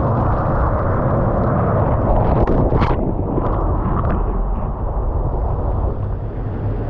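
Ocean surf rushing and churning, with heavy wind buffeting the microphone; a brief splash about three seconds in.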